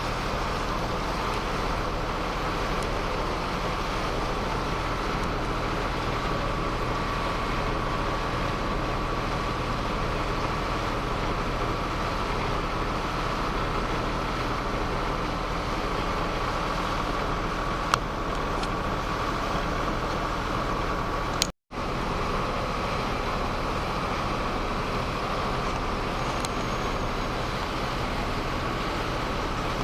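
Boat engine running at a steady drone. The sound cuts out completely for a moment about two-thirds of the way through.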